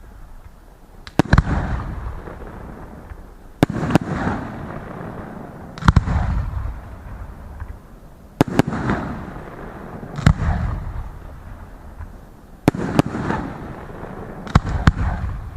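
Aerial fireworks shells bursting: sharp bangs every second or two, often in close pairs, each trailing off in a rumbling, crackling tail.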